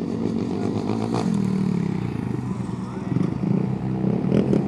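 An engine running steadily, with a few short clattering knocks.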